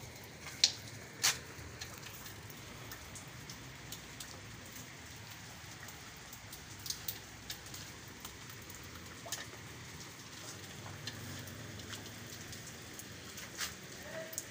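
Light rain falling: a steady hiss with scattered sharp ticks, the two loudest in the first second and a half.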